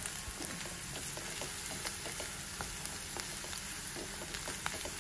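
Chopped shrimp, sweetcorn and onion sizzling in oil in a frying pan: a steady frying hiss, with small clicks and scrapes of a wooden spatula stirring them.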